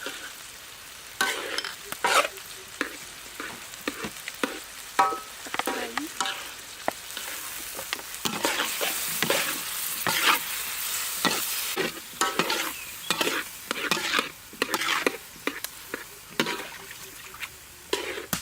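Fried rice being stir-fried in a hot pan: a spatula repeatedly scrapes and knocks against the pan over steady sizzling. The frying hiss swells for a few seconds around the middle.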